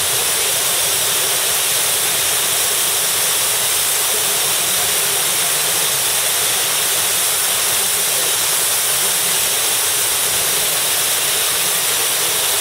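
Waterfall pouring: a loud, steady rush of falling water that never changes.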